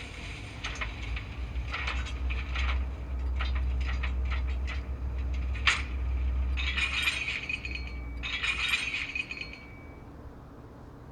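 Steam sound from a TCS WOW101 sound decoder in a Hornby 0-4-0T OO model locomotive: an irregular run of short clanks and chuffs, then two hissing steam bursts with a thin steady tone in them that end about ten seconds in. A low rumble runs underneath.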